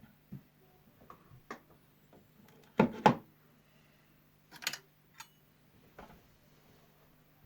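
Tools and parts being handled on a workbench: scattered small clicks and taps, two louder knocks close together about three seconds in and another near five seconds, over a faint steady low hum.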